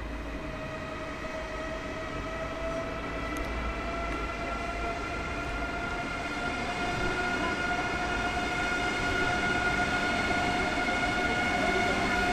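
ICE 3 high-speed electric train approaching at low speed, its traction equipment giving a whine of several tones that rise slowly in pitch over the rolling rumble, getting louder as it nears.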